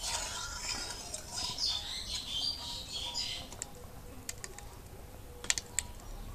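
Birds chirping in the background, busiest in the first half, with a few sharp clicks in the second half.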